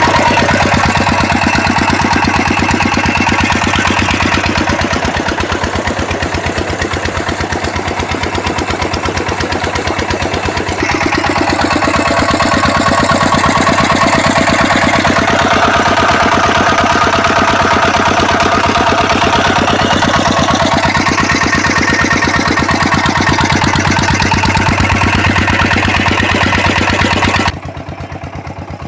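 Stationary 23 HP diesel engine running a water pump, with a steady, rapid, even firing beat. The level drops suddenly near the end.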